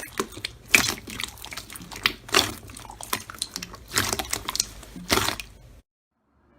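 Slime being squeezed and pressed by hand, making a series of wet squelching, crackling pops. The sound cuts off suddenly near the end.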